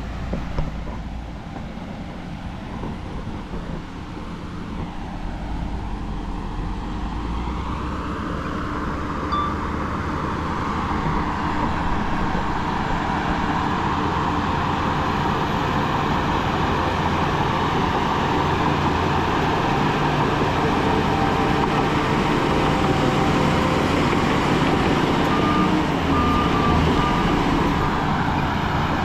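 Heavy diesel earthmoving machinery running steadily, growing louder over the first dozen seconds and then holding, with a few short reversing beeps near the end.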